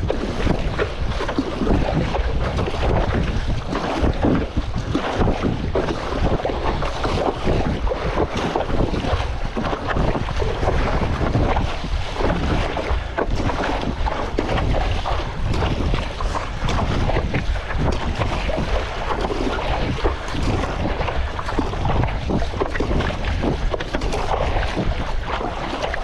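Strong wind buffeting the microphone, with choppy sea water sloshing and splashing.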